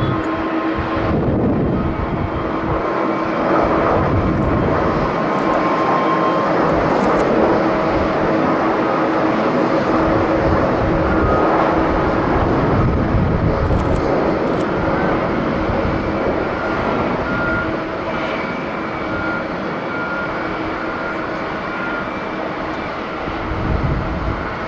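Jet airliner engines running at takeoff power, a steady noise with a few held whining tones. Gusts of strong wind buffet the microphone now and then, in low rumbling bursts.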